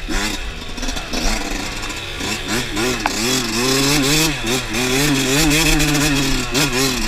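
Dirt bike engine being ridden, its pitch rising and falling as the throttle is opened and closed, with many sharp knocks and clatters over it.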